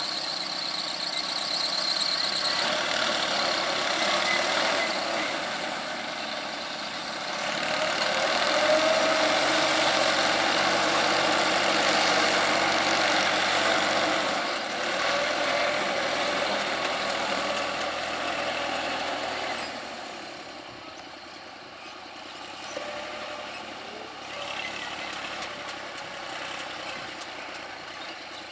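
New Holland 3230 TX Super 4WD tractor's 45 hp diesel engine working hard as the tractor struggles through deep mud. It is loudest for several seconds about a third of the way in and quieter near the end.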